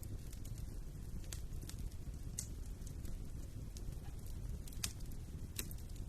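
Wood fire burning in a fireplace: a steady low rumble with scattered sharp pops and crackles, the clearest about two and a half and five seconds in.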